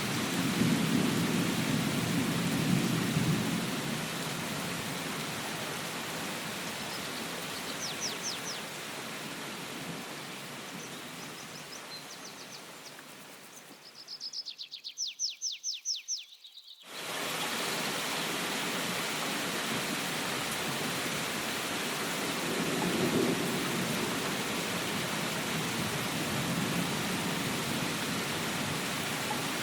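Steady rain, with low rolls of thunder in the first few seconds and again about two-thirds of the way through. Midway the rain fades away and a bird gives a rapid run of high chirps. The rain then cuts back in suddenly.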